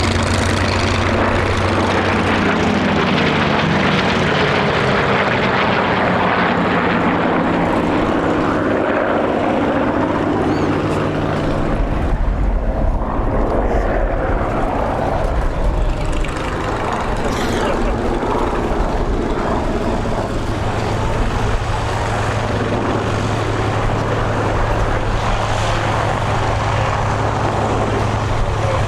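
Corsair fighters' Pratt & Whitney R-2800 radial piston engines and propellers on a display pass. The engine pitch falls as the aircraft go by, and a heavier rumble swells about halfway through.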